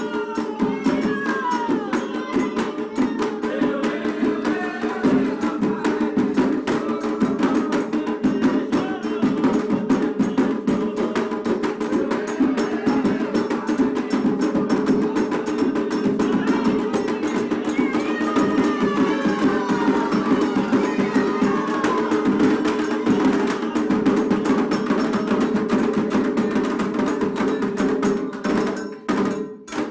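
Candomblé drumming: atabaque hand drums playing a fast, dense rhythm, with voices singing faintly over it. The drumming stops suddenly near the end.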